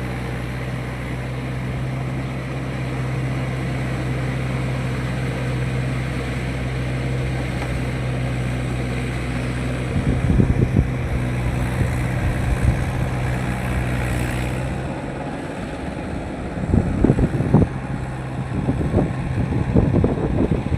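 Mahindra 585 tractor's diesel engine running steadily under work, its hum shifting in pitch about three-quarters of the way through. Loud, irregular low rumbles break in about halfway and again near the end.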